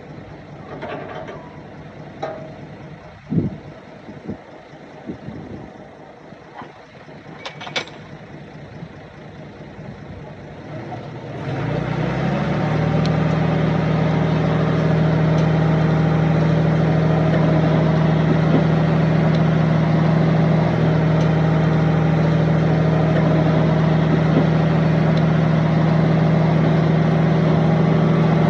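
Heavy diesel machinery working, with a few scattered knocks over a low engine background. About a third of the way in a heavy diesel engine comes in loud and close, then runs steadily at a constant pitch.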